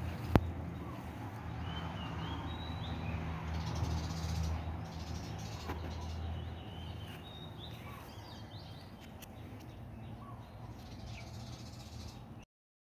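Birds calling over a steady low rumble of outdoor noise, with one sharp click about half a second in. The sound cuts off abruptly shortly before the end.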